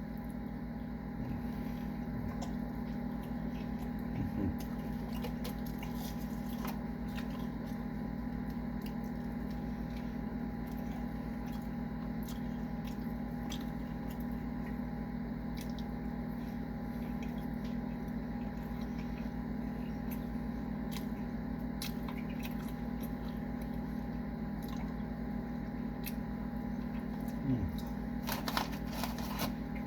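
A person chewing and biting into fast food, with small wet and crunchy mouth sounds scattered through, over a steady low electrical hum.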